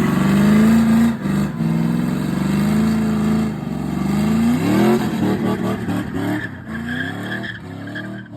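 A car engine revving hard as the car accelerates away. Its pitch climbs and drops back several times as it shifts up through the gears, and it fades toward the end.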